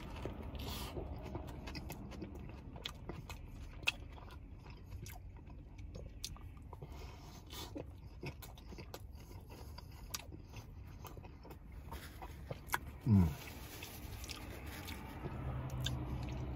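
Close-up biting and chewing of a loaded sub sandwich with lettuce, tomato, onion and a cheese-topped roll: wet mouth clicks and small crunches as the bite is worked. About thirteen seconds in, the eater makes a brief vocal sound that falls in pitch.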